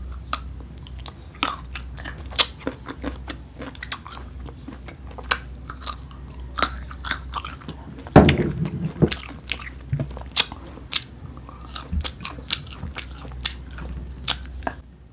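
Close-up biting and chewing of crisp unripe green mango: many sharp crunches throughout, with one louder, deeper bump about eight seconds in.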